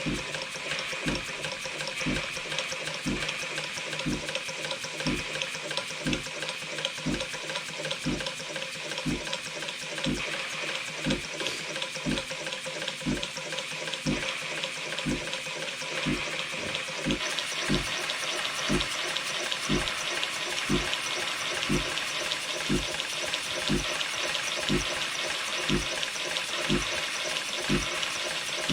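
Live-steam model steam engine running: a steady hiss of steam with a regular low knock about once a second. The hiss grows louder and brighter about two-thirds of the way through.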